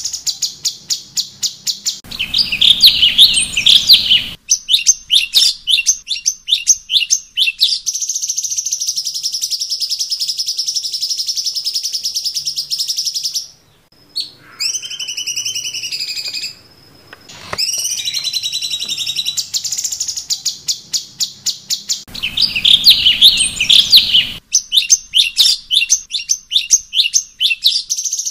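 Cucak cungkok bird song: loud, high-pitched rapid chirps in quick trains and a long steady buzzing trill. A brief break comes about halfway, then gliding whistled notes, and the chirp pattern starts over about three-quarters of the way in.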